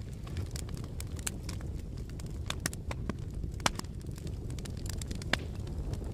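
A fire crackling: a steady low rumble of flames with irregular small pops and snaps, two sharper pops a little past the middle and near the end.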